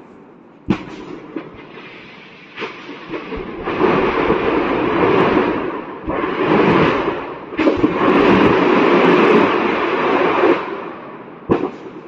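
Burning ammunition depot with its munitions cooking off. Sharp blasts come about a second in, near three seconds, near eight seconds and just before the end, between long stretches of dense crackling rumble.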